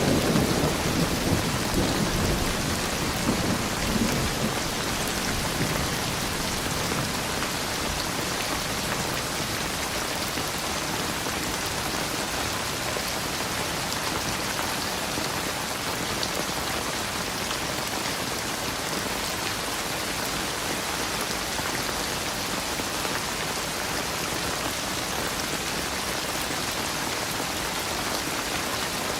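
Steady rain falling, with a low rumble of thunder in the first few seconds that fades away.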